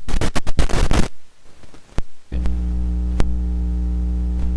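Electrical mains hum: a loud, steady buzz of stacked low tones that switches on suddenly about halfway through, with a sharp click a second later. It is preceded by a second of crackly static-like noise.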